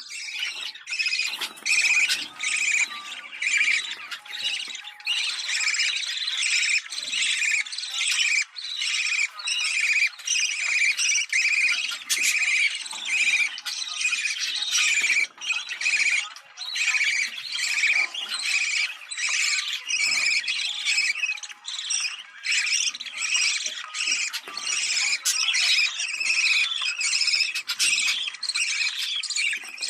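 Budgerigars chattering and warbling non-stop in a dense stream of quick, high chirps and squawks. This is the excited breeding-season chatter used to stimulate pet budgies to mate.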